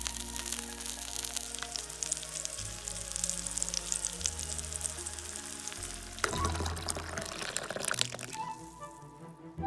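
A bamboo shoot sizzling and crackling in hot oil on an anvil top, under background music. About six seconds in the sound changes to water bubbling in a pot.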